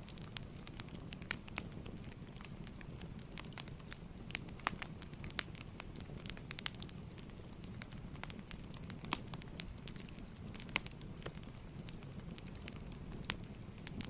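Wood fire crackling, with scattered sharp pops and snaps over a low steady rumble of flames.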